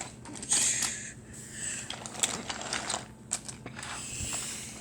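Wooden toy train being run along a wooden track: irregular clicking and clattering of the wooden cars and wheels on the track.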